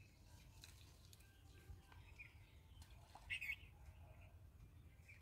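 Near silence outdoors, with faint bird chirps and one brief, slightly louder chirp about three seconds in.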